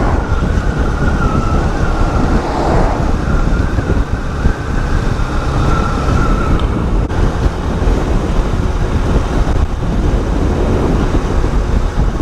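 Small Honda motorcycle running at road speed, heard under heavy wind rush on the microphone, with a thin high whine that wavers slightly.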